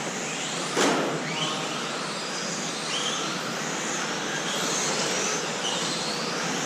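Brushless electric motors of 1/10-scale RC racing trucks whining as they accelerate and brake around the track, the whines rising and falling over a steady rush of tyre noise. There is a sharp knock about a second in.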